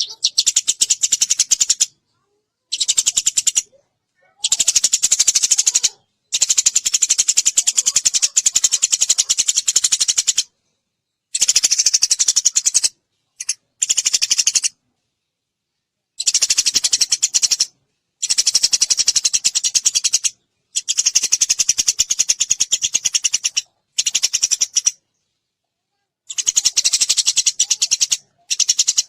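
Eurasian tree sparrow chirping rapidly in bouts of one to four seconds, each broken off by a short silence.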